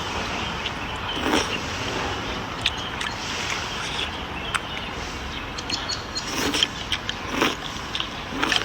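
Outdoor ambience: a steady hiss with several sharp, crisp snaps, about one every second or two, loudest about a second in and near the end.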